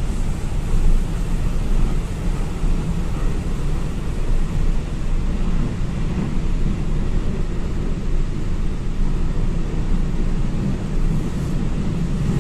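Steady low rumble of a moving vehicle, with an even hiss above it and no distinct tones or knocks.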